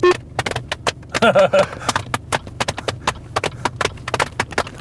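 A rapid, uneven beat of hand claps and slaps on the knees, a person drumming body percussion, with a short vocal sound about a second in.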